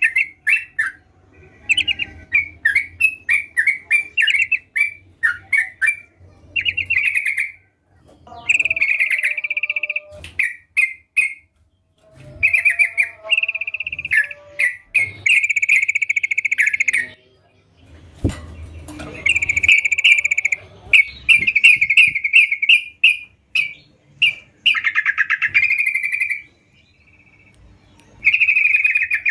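Yellow-vented bulbul (trucukan) singing vigorously: a series of quick, bubbly, chattering phrases, each a second or two long, with short pauses between them.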